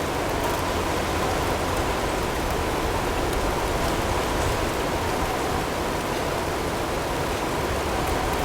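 Blizzard ambience: a steady, even rush of storm wind and blowing snow, with a faint steady tone blended in underneath.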